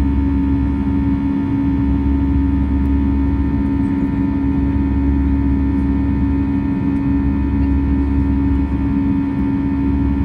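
Steady cabin drone of an Airbus A320 in flight, heard from inside the passenger cabin: engine and airflow noise with a constant low hum and rumble, unchanging throughout.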